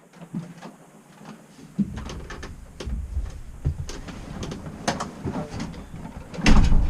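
A run of irregular knocks and clicks, as of a door and objects being handled, over a low rumble, with a heavier thump near the end.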